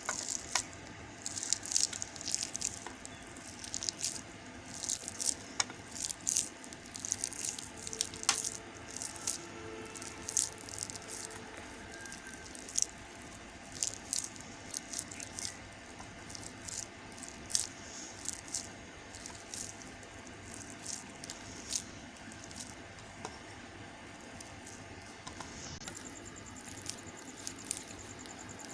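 Bars of soap handled close to the microphone: a run of short, irregular crisp scratching and crackling sounds, thicker in the first half and sparser later.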